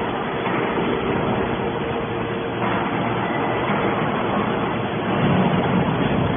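Hydraulic scrap-metal baler running: a steady machine hum from its motor and hydraulic pump, with one constant tone underneath, swelling slightly about five seconds in.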